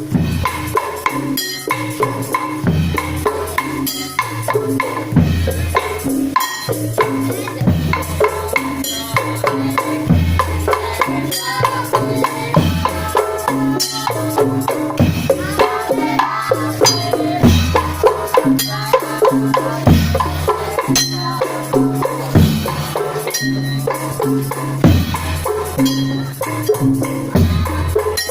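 Tongtek music: a Javanese percussion band of bamboo kentongan slit drums and drums playing a steady, driving rhythm, with a pitched melody over the beat.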